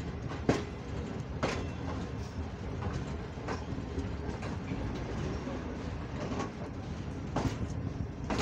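Passenger train rolling slowly into a station, heard from beside a coach: a steady rumble of wheels on the rails, broken by a few irregular sharp clacks as the wheels pass over rail joints.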